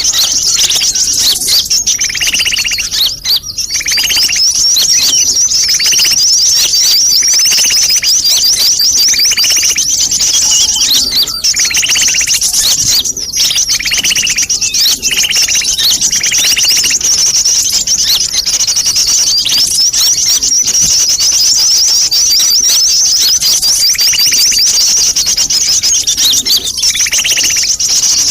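Sunbirds in a noisy chattering chorus: a dense, unbroken high twittering, with a lower chirp repeating every second or two.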